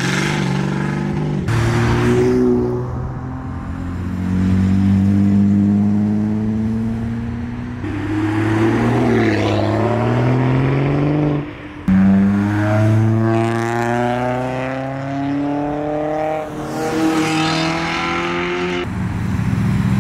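Modified tuner cars driving off one after another, their engines revving and accelerating away with pitch rising and falling through the revs. The sound switches abruptly from one car to the next several times.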